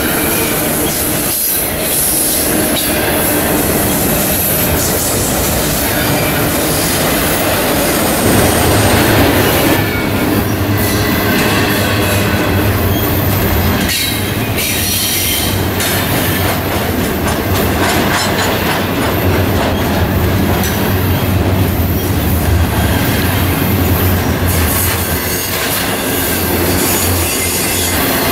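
BNSF double-stack intermodal freight train rolling past close by: a steady, loud rumble of steel wheels on rail, with a thin high wheel squeal now and then.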